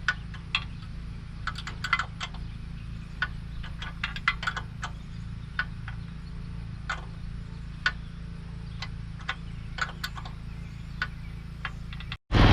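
Ratchet wrench clicking in short, irregular runs, with metal tool clinks, over a steady low hum.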